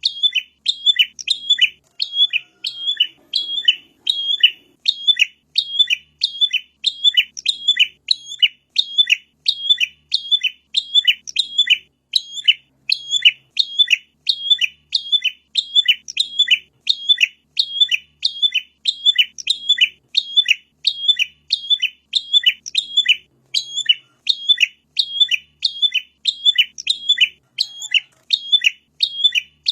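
Prinia (prenjak) calling: a long unbroken run of short, sharp chirps, about two a second, evenly spaced and all at the same strength.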